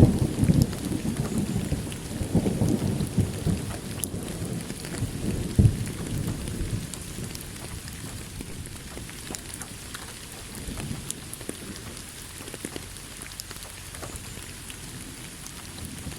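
Thunder rumbling away over steady rain. The rumble is loudest at the start and fades over the first several seconds, leaving rain falling with scattered drops pattering close by.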